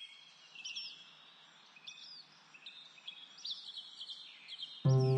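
Small birds chirping: short repeated chirps over a faint hiss. Loud music begins near the end.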